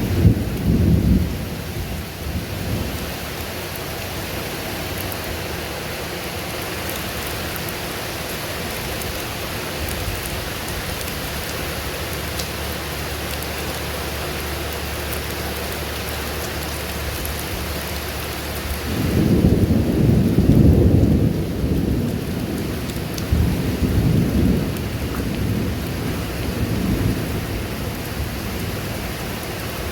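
Steady rain falling, with rolling thunder: a rumble right at the start, then a louder rumble about two-thirds of the way in that trails off in several weaker rolls.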